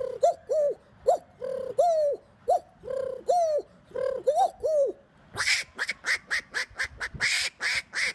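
A man imitating animal calls with his voice: first a string of short whistled bird calls that rise and fall, about two a second, then, about five seconds in, he switches to a fast run of short harsh quacking calls, about four a second.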